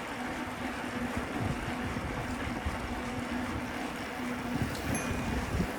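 Wind rumbling on the microphone and tyre and road noise from a moving bicycle, with an on-off low hum. A faint short high ping sounds about five seconds in.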